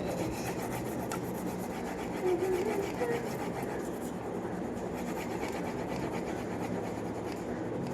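Pencil lead scratching back and forth on paper in quick repeated shading strokes.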